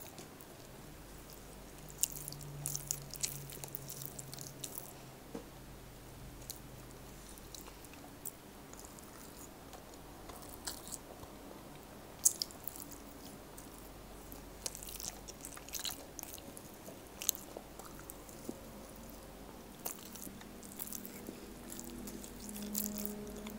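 A person chewing soft food, rice and beef stew eaten by hand, with wet mouth clicks and smacks scattered throughout.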